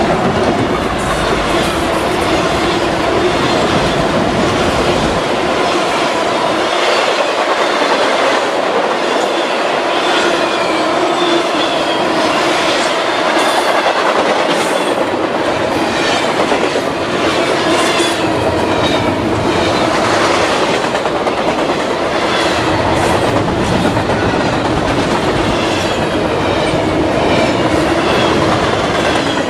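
Norfolk Southern double-stack intermodal freight train passing close by. A diesel locomotive's deep rumble fades out about five seconds in, then the autorack and container cars roll past with steady wheel-on-rail noise and repeated clickety-clack of wheels over rail joints.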